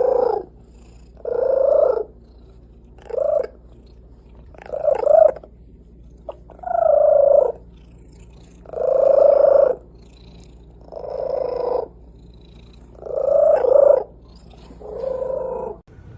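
A pet animal making a series of nine short, pitched vocal calls, each about half a second to a second long, with brief pauses between them.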